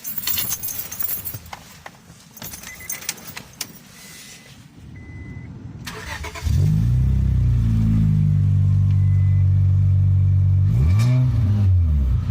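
Car engine with a newly extended aftermarket header-back exhaust started about six seconds in, then idling loud and steady through the exhaust, with one short rev near the end. Before the start there are clicks and handling noises and a faint electronic chime.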